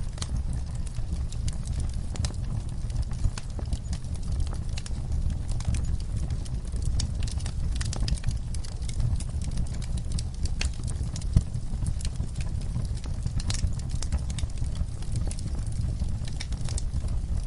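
Wood fire burning in a fireplace: a steady low rumble of the flames with irregular crackles and pops, a few of them sharper and louder.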